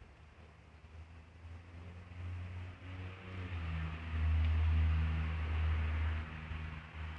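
An engine's low hum, likely a passing motor vehicle, grows louder to a peak about four to six seconds in and then fades, with a shift in pitch partway through.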